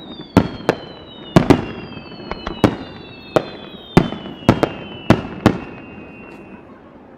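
Fireworks display: a rapid, irregular string of sharp bangs from bursting shells. Over the bangs run high whistling tones that glide slowly downward in pitch. The bangs stop about five and a half seconds in and the noise dies away.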